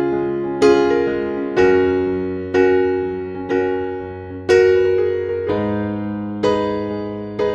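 Slow background piano music: a note or chord struck about once a second and left to ring and fade before the next.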